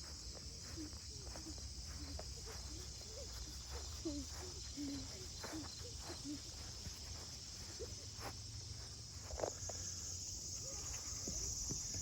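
Footsteps on a trail with a steady high-pitched chorus of insects throughout, which swells near the end.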